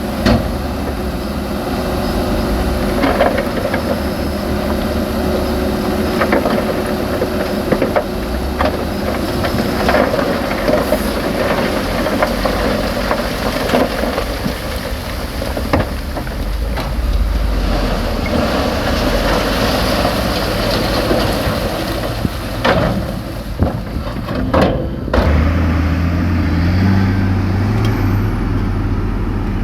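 Heavy diesel earthmoving machines working, engines running under load, with repeated knocks and clanks of rock and steel. Near the end the sound changes abruptly to a steadier low engine drone.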